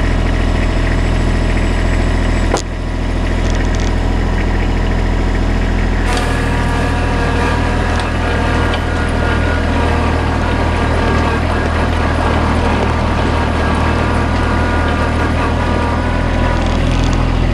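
Kubota tractor's engine running steadily as it drives, with a click about two and a half seconds in. About six seconds in, a higher whine joins the engine.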